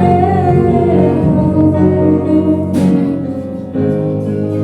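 Live gospel worship music: held chords from the band, dipping briefly and coming back in about three-quarters of the way through, between sung lines.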